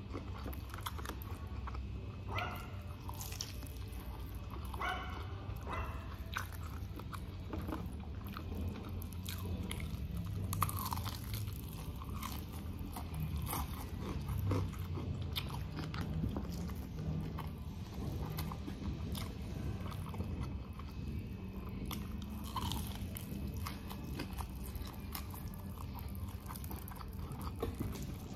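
Close-up chewing and biting of crispy fried chicken, with repeated crunches of the breaded coating and wet chewing between bites.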